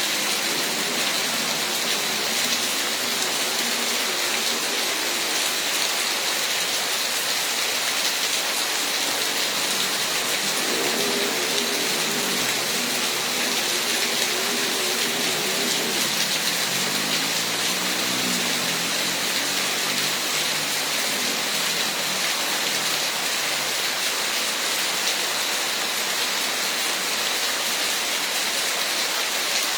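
Heavy rain pouring steadily, a dense unbroken hiss of downpour on surfaces.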